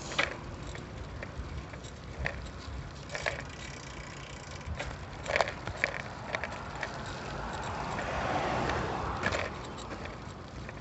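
Bicycle riding along a street, filmed on a phone: steady tyre and wind noise with scattered clicks and rattles, and a swell of louder rushing noise about three-quarters of the way through.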